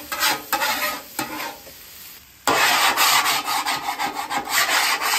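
A metal spatula scrapes across the hot steel griddle top, pushing diced peppers and onions, over sizzling. About halfway in it switches abruptly to louder, rapid back-and-forth scraping of a bench scraper over the griddle surface.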